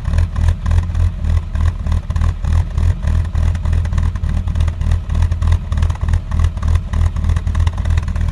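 1991 BMW E30 325ix's 2.5-litre inline-six exhaust at a rough idle, with an uneven, pulsing note. The owner hears it as sputtering or surging and doesn't know the cause.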